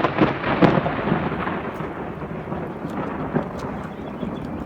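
Thunder from a close lightning strike, crackling and rumbling and slowly dying away, with rain falling.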